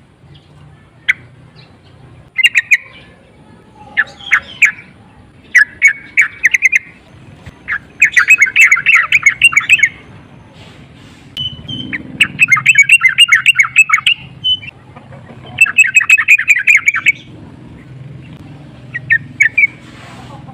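Yellow-vented bulbul (trucukan) singing in loud bursts of fast, chattering notes. The longest phrases last about two seconds, and shorter calls fall between them. This is the excited, breeding-mood song that keepers play to provoke a caged bulbul into singing.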